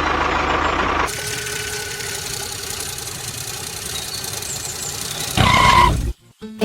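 A motor or engine running, heard in cut-together segments: a low rumble for about the first second, then a steadier running sound, then a louder stretch with a higher tone that cuts off shortly before the end.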